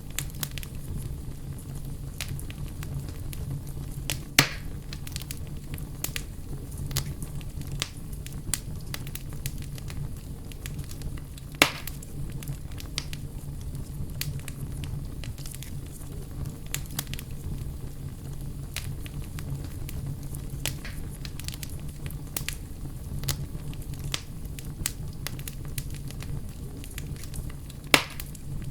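Wood bonfire crackling steadily with frequent small snaps and a steady low rumble underneath. Three louder pops stand out, about 4 s, 12 s and 28 s in.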